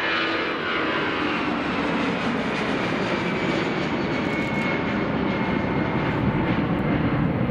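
Jet airliner's engines running loud as the aircraft passes, a dense roar with a few whine tones that slowly fall in pitch.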